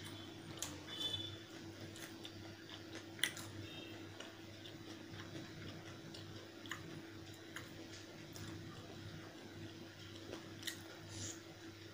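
A person chewing chicken curry and rice, with scattered wet mouth clicks and smacks, over a steady faint hum.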